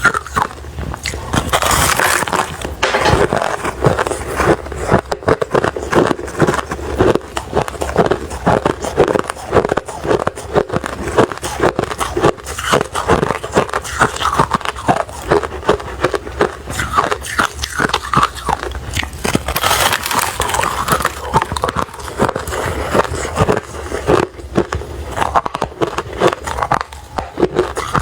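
Refrozen crushed ice being bitten and chewed close to the microphone: a continuous run of quick, crisp crunches, with louder bursts of crunching about two seconds in and again near the middle.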